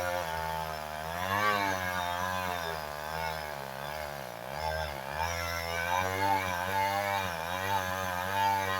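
Two-stroke chainsaw running in a cut, its engine speed rising and falling, sagging lowest about halfway through as the bar loads up in the wood.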